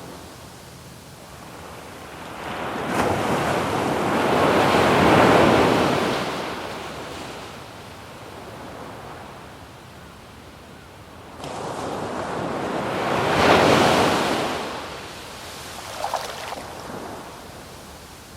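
Sea waves breaking on a sandy beach, twice: each swells up over a couple of seconds, peaks, and washes back out, with a quieter surf hiss between them.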